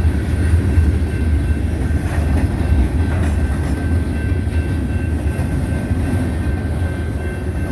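Freight train cars rolling by with a heavy low rumble of wheels on rail and a few faint clicks over the joints, with a faint steady high whine. The sound slowly eases off.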